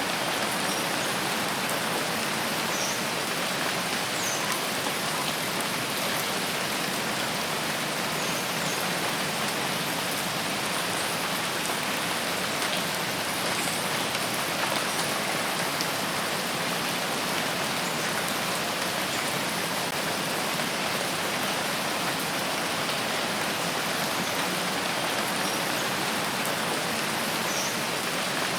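Steady rain falling, an even hiss that does not change, with a few faint short high-pitched sounds here and there.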